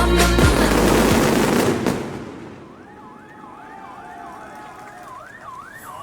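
Loud music fades out about two seconds in, leaving a siren warbling up and down about twice a second, growing louder near the end.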